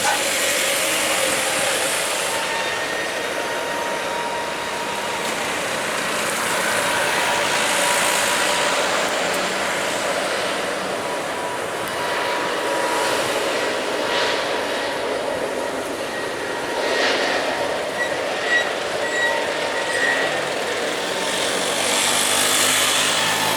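Jet airliner engines running, a steady rushing sound with faint whining tones that swells and eases a little.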